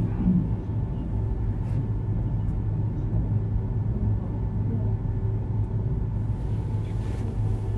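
Steady low hum and rumble of room and sound-system background, with no voices.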